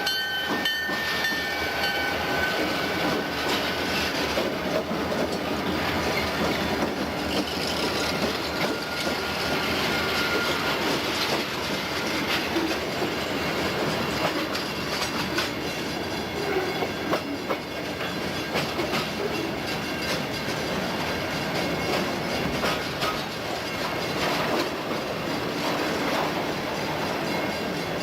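Freight train rolling past a road crossing, its wheels clacking steadily over the rail joints beneath continuous rumble and rail noise.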